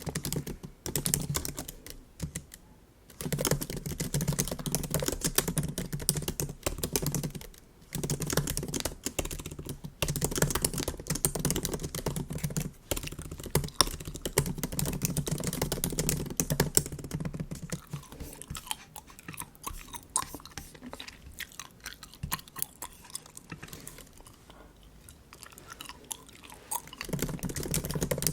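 Close-up MacBook keyboard typing, a dense run of soft key clicks with brief pauses, together with bubble gum being chewed. The typing thins out and grows quieter for several seconds in the second half.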